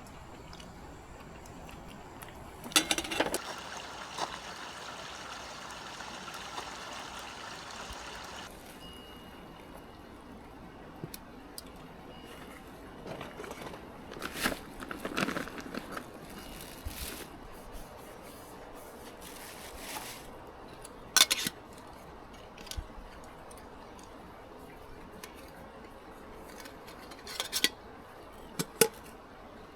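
Camp gear being handled. About three seconds in, after a sharp knock, there is a steady rush like liquid being poured for some five seconds, followed by scattered clicks, knocks and scrapes.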